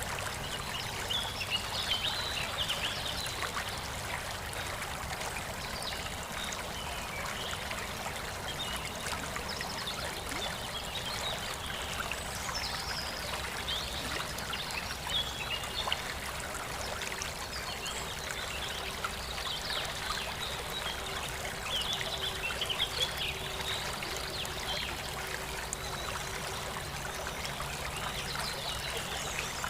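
Water trickling and splashing steadily in a jungle-style aquascape, with many small drip-like clicks and scattered high chirps over it.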